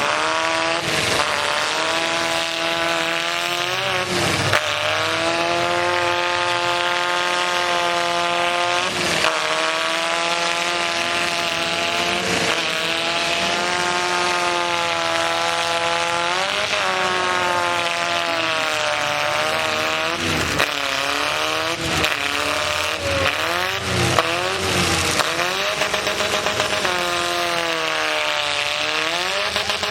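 Demolition derby trucks running hard: engines held at high revs, pitch falling and rising again as they throttle off and back on, with several sharp knocks of trucks hitting each other, the knocks coming most often in the latter half.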